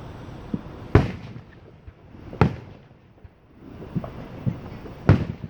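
Fireworks going off: three loud booms, about a second in, near the middle and near the end, each with a short echo. Fainter pops sound between them.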